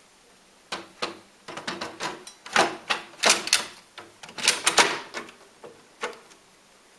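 Samsung ML-1750 laser printer's mechanism clicking and clattering as it runs a test page: a run of irregular sharp knocks and rattles lasting about five seconds, then stopping.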